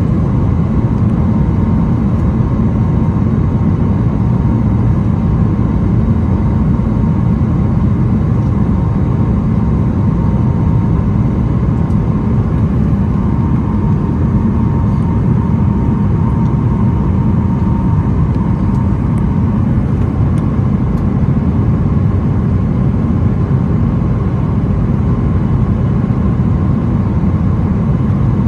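Steady cabin noise of a Boeing 737-900ER in flight: a constant low rumble of its CFM56-7B jet engines and the rushing air. A faint thin whine fades out about two-thirds of the way through.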